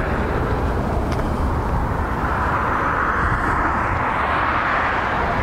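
Steady outdoor background noise: a low rumble with a hiss that swells from about two seconds in and eases near the end.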